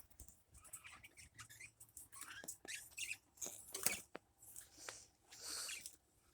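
Small birds at a nest: soft, scattered high squeaks and chirps mixed with scratchy rustling and light ticks.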